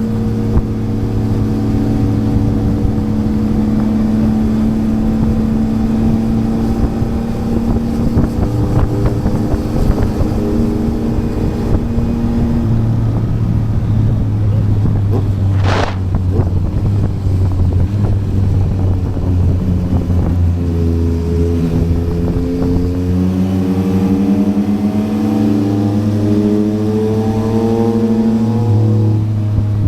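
Yamaha MT-09's inline three-cylinder engine with a Yoshimura R11 exhaust, running under way at steady revs, then climbing in pitch over the last several seconds as it accelerates.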